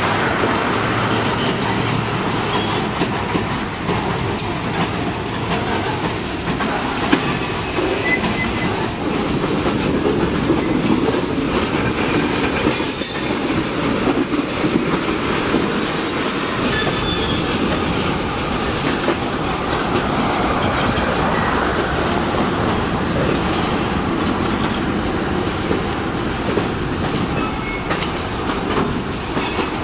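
CSX freight train with diesel locomotives rolling past, a steady rumble of engines and cars with wheels clicking over the rails. A few brief high wheel squeals come through about a third of the way in.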